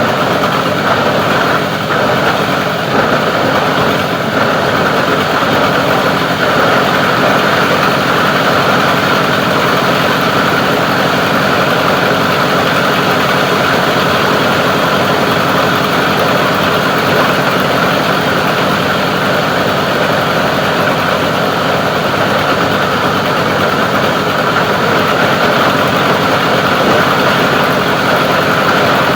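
Plastic-recycling grinding machine running steadily and loudly, its drone unchanging throughout.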